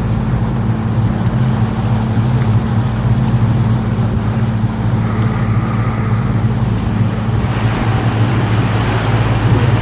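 Canal tour boat's engine running with a steady low hum, under a hiss of water and wind. The hiss grows louder about seven and a half seconds in.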